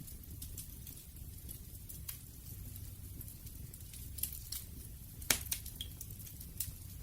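Campfire burning: wood crackling with scattered sharp pops over a steady low rumble of the flames, the loudest snap about five seconds in.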